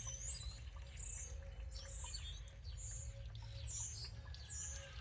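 Small birds chirping over and over, short high chirps about twice a second, over a low steady hum.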